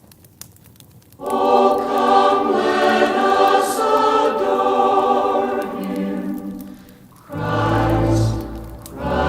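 A choir sings Christmas music, starting about a second in after a brief lull of faint crackling. The singing dips briefly near the end, then comes back in with fuller, deeper voices.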